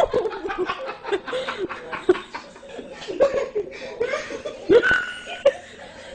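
People laughing in short, choppy bursts of chuckles, loudest at the start and again near the end.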